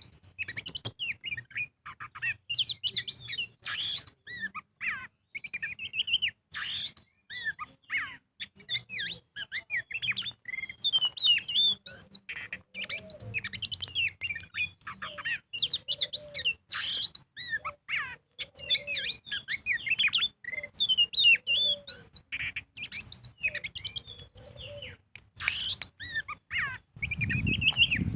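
Oriental magpie-robin (kacer) singing a rapid, unbroken song of varied whistles, trills and chirps, some notes sweeping up and down. This is the full-volume 'gacor' song used as bait audio to provoke other magpie-robins into singing. A short low rumble sounds near the end.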